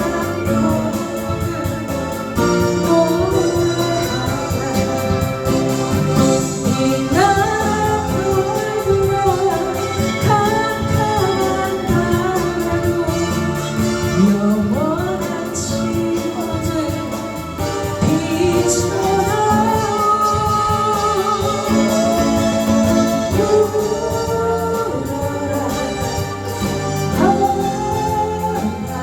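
A singer sings a slow ballad with long held, gliding notes over an instrumental accompaniment.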